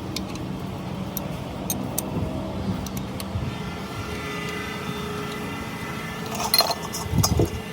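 Steady mechanical running hum with scattered sharp metallic clicks, a couple of steady whining tones coming in partway through, and a burst of louder knocks and clatter near the end.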